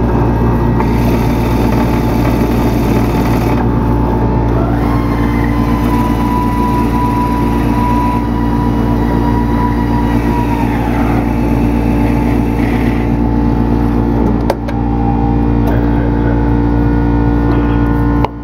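Electric woodworking machine running steadily while cutting swamp maple, with a high whine for several seconds in the middle as the cutter works the wood; it cuts off suddenly at the very end.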